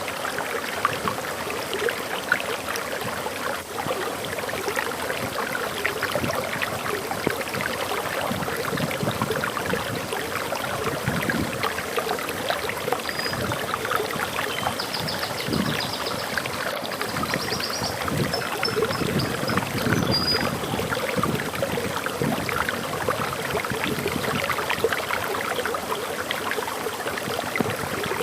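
Waterfall water rushing steadily. In the middle a songbird sings faintly: a few short, high trills and chirps.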